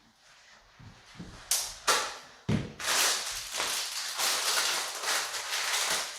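Packaging crinkling and rustling as items are handled and unwrapped, starting with a few sharp snaps about a second and a half in and turning into continuous crinkling for the rest.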